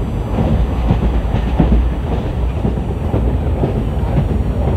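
Passenger train's ICF coach running on the track, heard from inside: a steady heavy rumble with irregular clatter of the wheels over the rails.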